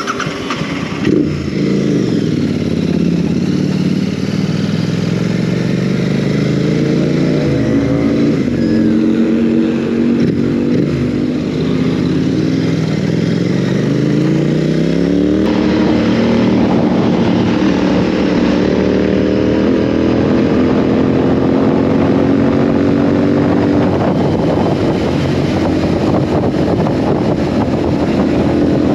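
Royal Enfield Continental GT 650's parallel-twin engine working through the revs on a ride: its pitch falls, climbs, drops quickly about eight seconds in as at a gear change, climbs again, then holds steady from about halfway.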